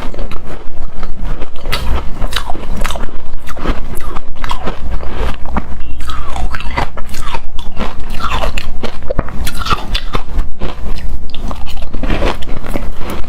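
Close-up crunching and chewing of hard frozen shaved ice: a dense, continuous run of crisp crunches and crackles as bites are chewed.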